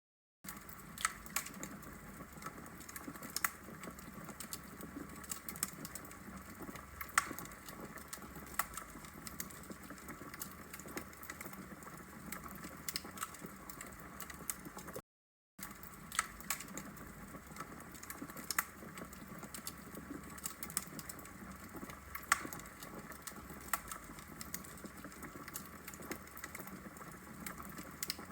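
Wood fire crackling in a fireplace: a steady low hiss with frequent, irregular sharp pops and snaps from the burning logs. The sound cuts out completely for about half a second midway through.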